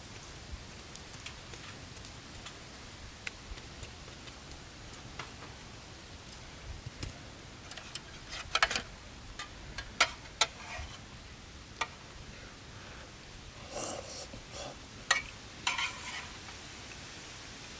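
Scattered sharp clicks and a few short scraping bursts of eating out of an aluminium mess tin, louder in two clusters midway and near the end, over a faint steady crackle of a wood campfire.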